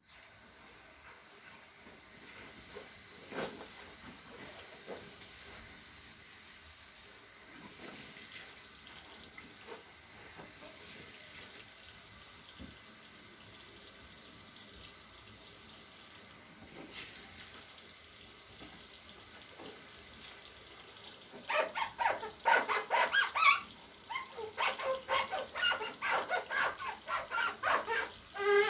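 Cleaning with a wet sponge or cloth: quiet wiping and swishing at first, then from about 21 seconds in a rapid run of loud, high squeaks and squishes from the sponge.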